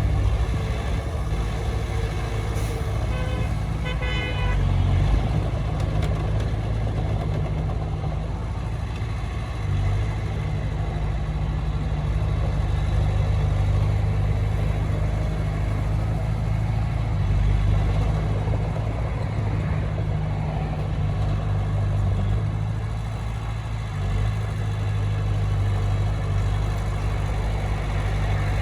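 Heavy diesel earthmoving machinery running at a steady low rumble, rising and falling slightly with load. A brief high-pitched tone sounds about three to four seconds in.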